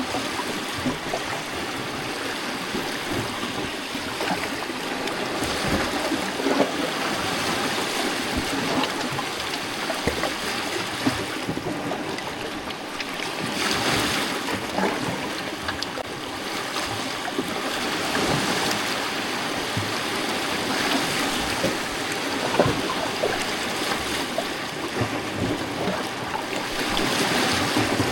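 Small lake waves lapping and splashing among rocks on the shoreline: a continuous wash of water with many little splashes and gurgles, swelling gently now and then.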